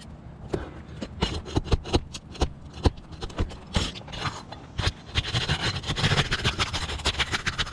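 Asphalt roof shingles being handled and lifted: irregular sharp clicks, knocks and gritty scraping, growing denser and more continuous in the second half.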